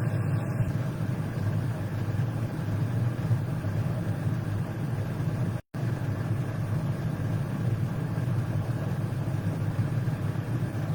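Steady low background rumble with no speech over it, cut off by a brief total dropout a little past halfway.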